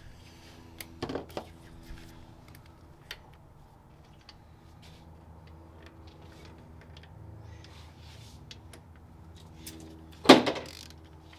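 Hand tools and metal engine parts clicking and clinking during engine work, with one loud ringing metal clank about ten seconds in.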